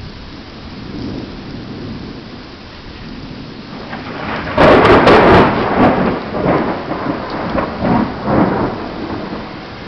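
Steady rain, then a close thunderclap: a sharp crack about four and a half seconds in, followed by rolling rumbles that fade over the next few seconds.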